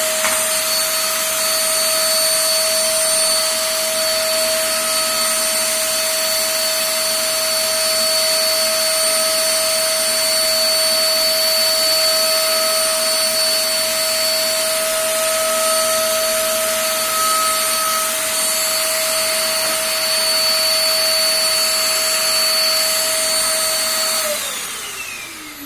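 Eureka Forbes Trendy Zip 1000-watt vacuum cleaner running steadily, with a high motor whine over rushing air as it vacuums dust off a floor. Near the end it is switched off and the whine falls away as the motor winds down.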